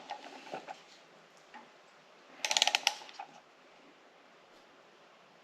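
Click-type torque wrench ratcheting on a Subaru EJ25 cylinder head bolt during the first 22 ft-lb tightening pass. A few clicks come at the start, then a quick run of ratchet clicks about two and a half seconds in.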